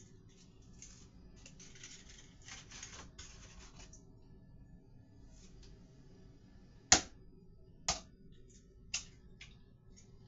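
Eggs being cracked against a bowl for a cottage cheese bread batter: soft rustling and handling in the first few seconds, then a handful of sharp knocks, the loudest about seven seconds in.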